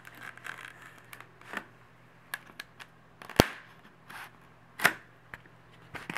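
Handling of a cardboard shipping box with a cooler packed inside: scattered small clicks and rustles, with a sharp knock about three seconds in and another a second and a half later.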